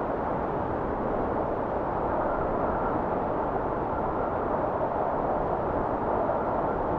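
Steady blizzard wind blowing, a continuous rushing noise that stays even throughout.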